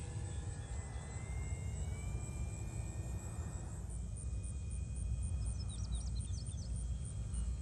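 Electric R/C model airplane's motor and propeller whining faintly in flight, the pitch rising a little and then holding steady, over a low steady rumble.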